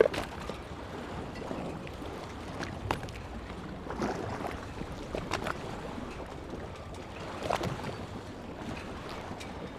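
Sea water lapping and splashing against the shore, a steady wash with several sharper splashes scattered through.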